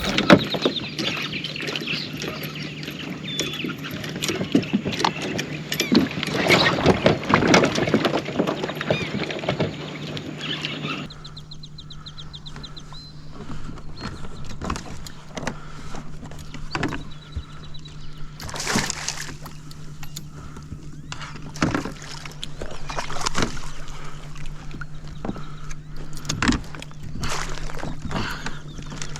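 Sounds from a kayak on the water: irregular splashes and knocks against the hull over a steady low hum. The background changes abruptly about eleven seconds in.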